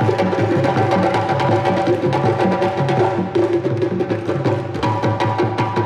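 Percussion-driven music: drums play a fast, steady rhythm with a sharp wood-block-like click over a sustained pitched line.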